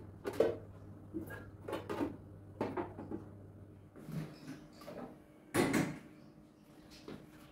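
A series of light knocks and clatters from household items being handled and set down in a kitchen, with a cupboard or drawer, the loudest knock coming a little before the end. A low steady hum runs underneath and stops about halfway through.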